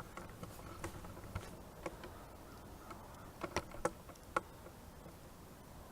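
Quiet outdoor background with scattered light clicks and ticks; the loudest few come about three and a half to four and a half seconds in.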